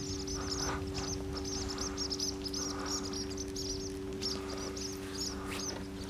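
A small bird twittering in quick, high, repeated chirps, several a second, over a faint steady low hum.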